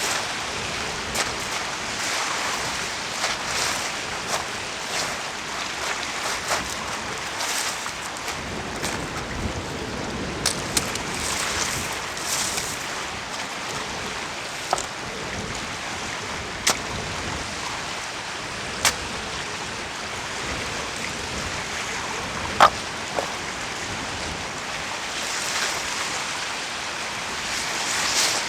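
Steady wash of surf and wind, with a few sharp knocks scattered through it; the loudest comes about two-thirds of the way in.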